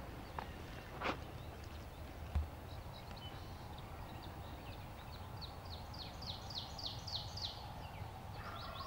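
A small songbird singing: a run of short, high slurred notes, about five a second, growing louder over a few seconds. A sharp tick about a second in and a brief low thump a little later.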